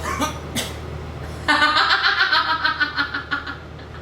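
A person laughing: a couple of short vocal sounds, then a run of quick, high-pitched laughing pulses lasting about two seconds.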